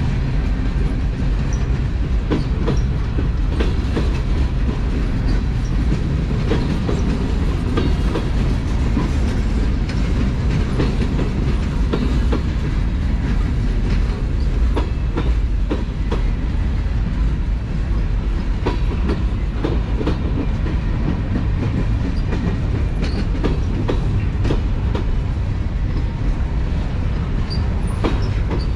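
Norfolk Southern freight train rolling past at speed: a steady heavy rumble of cars on the rails, with wheels clicking irregularly over rail joints.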